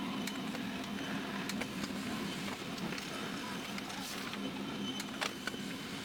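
HP LaserJet P2015d laser printer running a print job after its restoration: a steady motor hum with scattered clicks and ticks from the paper path.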